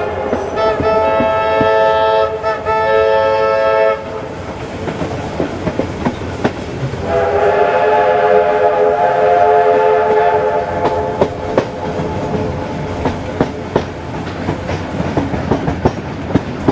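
A train whistle sounds two long chord-like blasts, the first lasting about four seconds and the second about three and a half seconds after a short pause. Under and after them, carriage wheels clatter over rail joints and pointwork as the train rolls out of the station.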